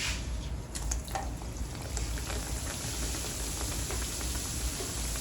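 Twisted yeast-dough donuts frying in hot oil in a pan: a couple of light knocks, then a steady sizzle from about two seconds in.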